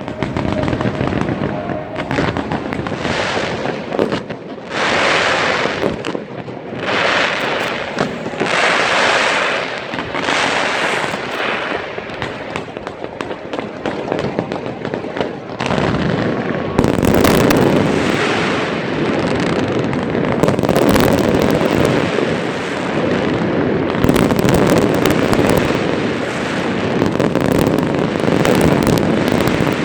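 Fireworks display: a continuous barrage of bangs and crackling, growing denser and a little louder about halfway through.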